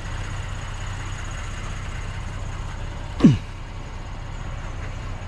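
A vehicle engine running with a steady low rumble. A little over three seconds in, a short sound slides sharply down in pitch.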